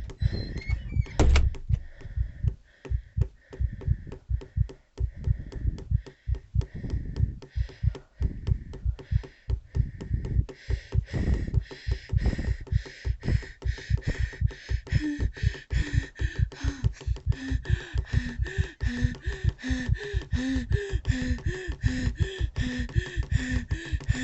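A steady rhythm of knocks or thumps, several a second. About ten seconds in a high steady tone joins, and from about fifteen seconds a short pitched blip repeats under it.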